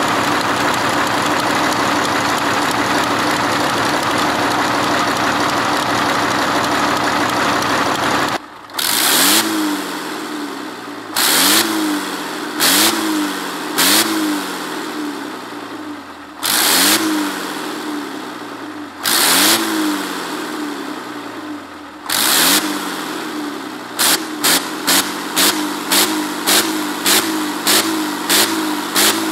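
Tatra engine running steadily. Then, after a sudden change, the throttle is blipped again and again: each sharp rev dies away in a falling pitch. The blips come a couple of seconds apart at first, then quickly, about two a second, near the end.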